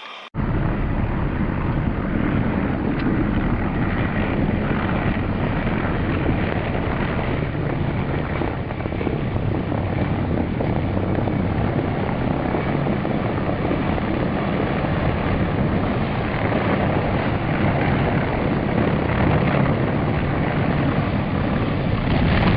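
Aircraft in flight, its engine and airflow noise running loud and steady. It starts abruptly a moment in.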